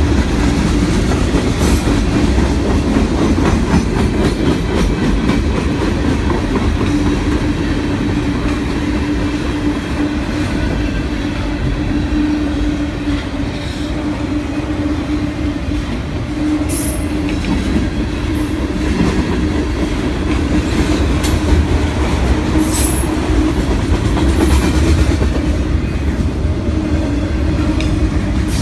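Freight train cars rolling past, a steady rumble of steel wheels on rail with a held tone through the middle and sharp clicks and clacks in the second half.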